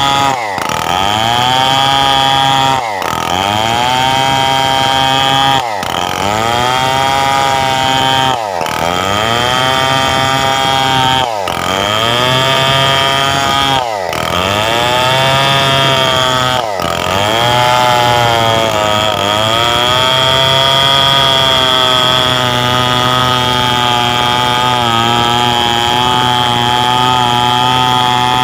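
Stihl 070 two-stroke chainsaw cutting coconut-palm wood into beams. About every two and a half to three seconds the engine note dips sharply and climbs back. From about two-thirds through it runs steadily at a lower pitch under the load of the cut.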